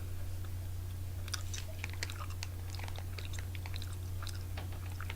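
A person chewing a soft gummy candy, with wet mouth clicks and smacks scattered through, over a steady low electrical hum.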